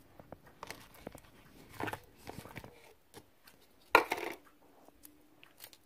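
Sticky slime full of foam beads being mixed by hand after more activator is added: scattered small clicks and squelches, with louder crackly bursts about two and four seconds in.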